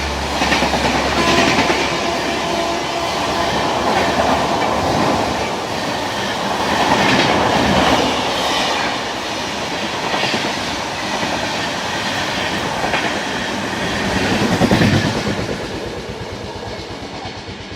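Passenger train's coaches passing at speed, wheels clattering over the rail joints, fading away over the last couple of seconds.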